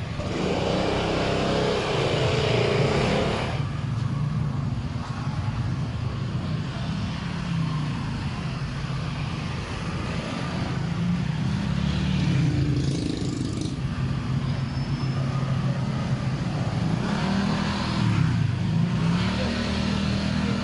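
Street traffic: car and motorbike engines running and passing close by, their pitch rising and falling as they speed up and slow down, louder during the first few seconds.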